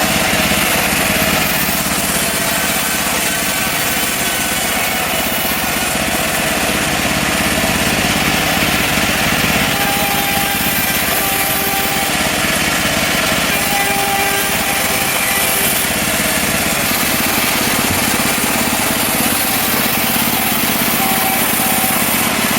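Small petrol engine of a portable bandsaw sawmill, running steadily at working speed without letting up.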